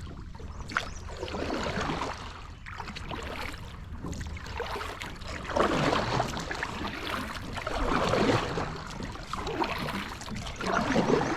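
Kayak paddle strokes swishing and splashing through the water, a swell of water noise every two to three seconds, over a steady low rumble.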